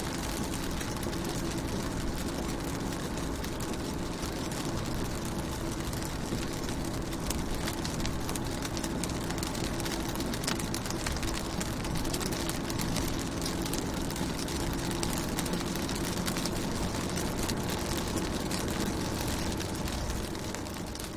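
Rain falling on a car's windows and body, heard from inside the car: a dense, steady patter of drops over a low steady hum.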